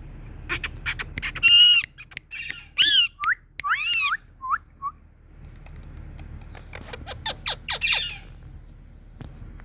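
Indian ringneck parrot squawking: a run of harsh, loud calls and short chirps, a pause of about two seconds, then another quick run of harsh calls.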